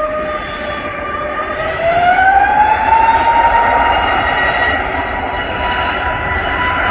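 Airliner jet engines spooling up for takeoff: a rising whine over a rushing roar that climbs in pitch and loudness for about the first three seconds, then holds steady at takeoff power.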